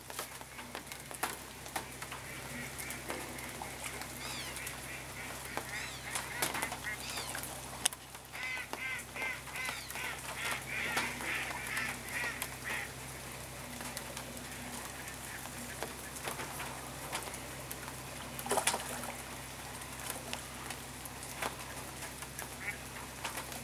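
Runs of quick, repeated honking bird calls, most of them in the first half, over a steady hiss of rain falling on the lake.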